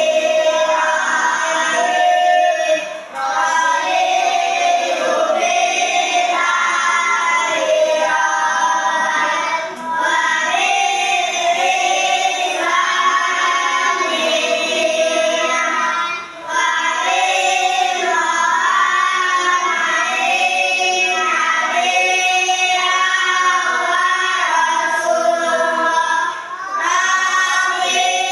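A group of children singing together in unison, phrase after phrase, with brief breaths between phrases every several seconds.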